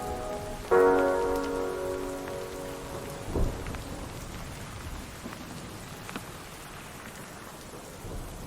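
Steady rain sound effect with a short low rumble of thunder about three seconds in. A sustained musical chord from the end of a song rings out and fades over the first couple of seconds.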